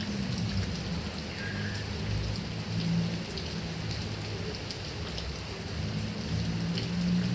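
Heavy rain falling on grass and coconut palms: a steady wash of rain with a low rumble underneath and separate drops ticking throughout.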